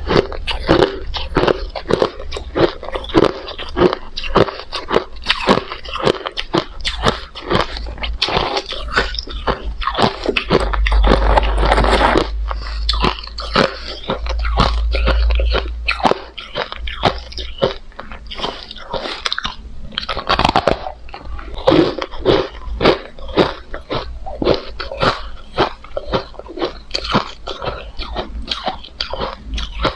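Hard crushed ice being chewed close to the microphone: rapid, irregular crunches and cracks as the pieces break between the teeth, with denser stretches of crunching partway through.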